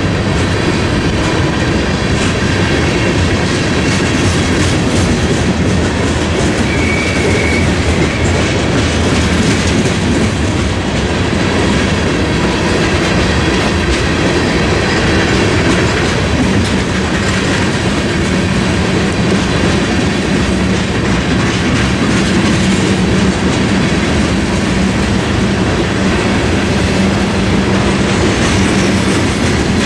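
Freight cars of a Norfolk Southern mixed freight train, covered hoppers and tank cars, rolling past at a level crossing: a steady rumble of wheels on rail with clickety-clack over the rail joints. A brief high squeal comes about seven seconds in.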